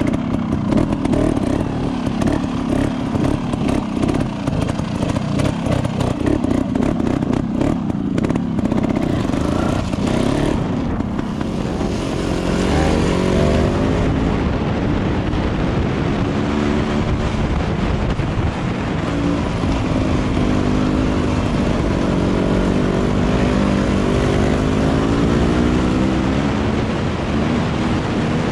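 Off-road motorcycle engine running as the bike rides a rough gravel track, choppy at first, then from about twelve seconds in its pitch rising and falling again and again with the throttle. Wind rushes over the helmet microphone throughout.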